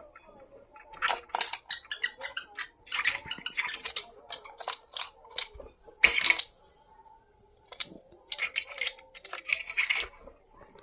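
Woodpeckers tapping on a window with their beaks: irregular clusters of sharp taps, the loudest just past the middle.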